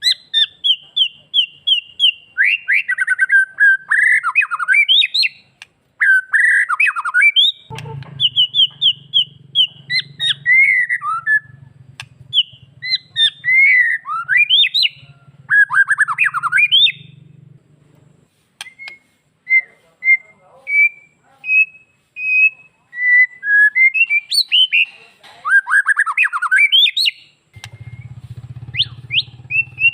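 White-rumped shama (murai batu) singing in varied phrases: fast runs of repeated high notes and falling, sweeping whistles, separated by short pauses. A low steady hum sits underneath from about eight to eighteen seconds in and again near the end.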